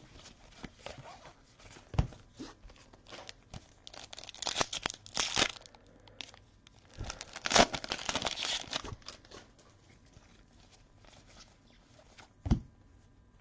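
A trading-card pack wrapper being torn open and crinkled, in two spells of crackly rustling, with a few sharp knocks as cards and packs are handled.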